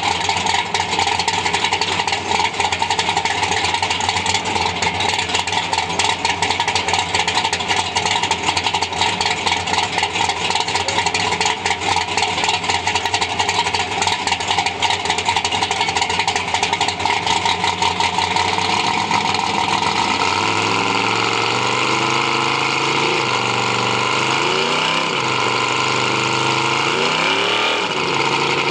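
Nitrous-equipped Chevy II's engine idling loud and choppy, then revved up and down several times near the end.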